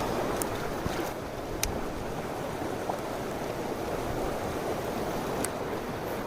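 Mountain stream water flowing with a steady rushing sound, with a few faint sharp clicks on top.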